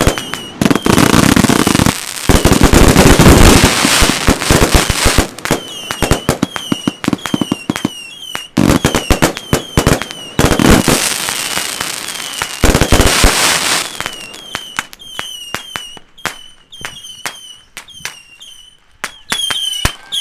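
Consumer firework cakes firing in rapid volleys of bangs and crackling, with short high whistling tones between the shots. The two densest barrages come about a second in and again about ten seconds in, and the shots thin out to single bangs near the end.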